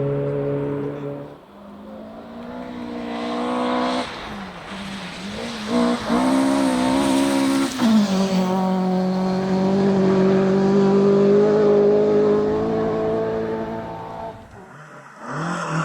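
Rally car engine revving hard, pitch climbing and dropping through several gear changes, then holding a high steady note before fading away as the car passes; another burst of engine sound starts near the end.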